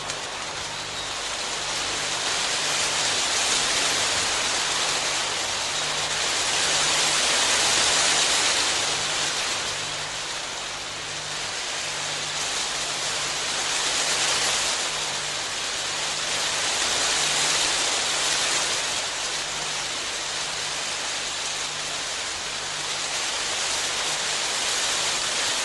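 Rain falling steadily, a dense even hiss that swells and eases every few seconds.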